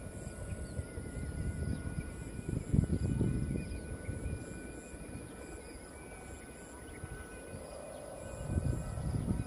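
Strong wind buffeting the microphone in gusts, loudest about three seconds in and again near the end, with faint steady high tones behind it.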